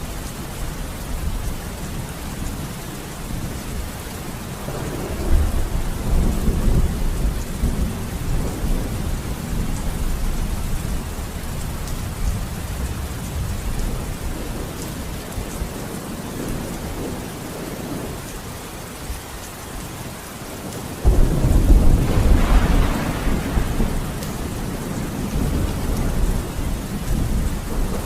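Steady rain with thunder: a rumble swells about five seconds in, and a louder, sudden thunderclap breaks near the end, rolling on for several seconds.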